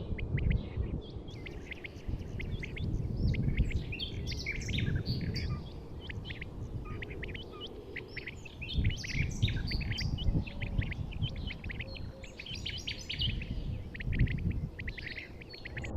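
Many birds chirping in quick, short calls, over a steady low rumbling background noise.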